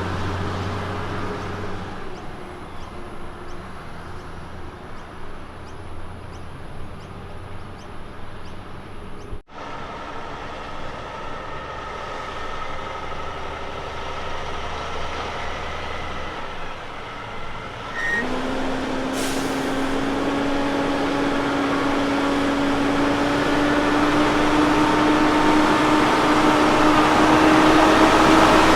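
Road train prime mover's heavy diesel engine, pulling under load. Its note rises slowly and grows steadily louder over the last ten seconds as the truck approaches.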